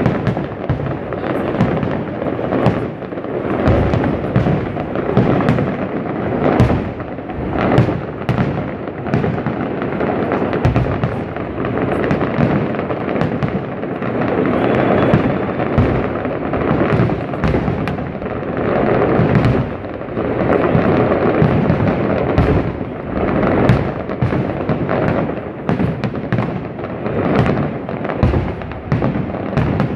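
Fireworks finale: a dense, near-continuous barrage of aerial shell bursts, several bangs a second overlapping into a constant rumble.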